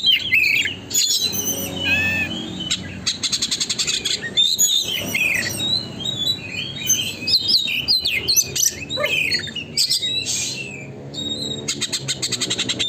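Oriental magpie-robin (kacer) singing a fast, nonstop, varied song of whistles and chirps, broken by rapid rattling trills near the start, about three seconds in and near the end.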